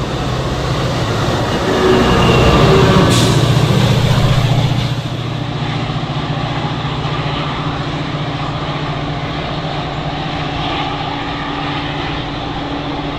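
Train running past on the railway line, a continuous rolling rumble with a steady low engine hum. It swells to its loudest a couple of seconds in, then eases to a steadier drone.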